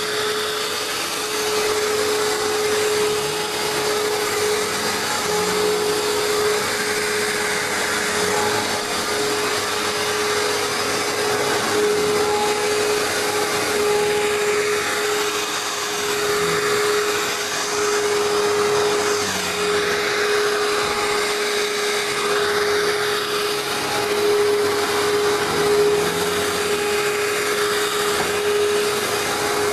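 Hoover Turbopower 2 vacuum cleaner running steadily: one steady motor whine over the rush of air.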